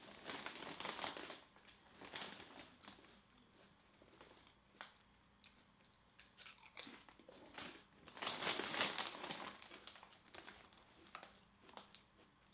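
Close-up crunching and chewing of potato chips, with a plastic chip bag crinkling. The loudest stretch of rustling and crunching comes a little past the middle.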